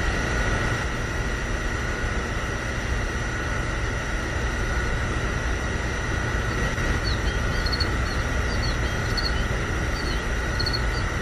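Steady low mechanical rumble with a constant high whine, as of a small motor running. Short high chirps come in from about seven seconds in.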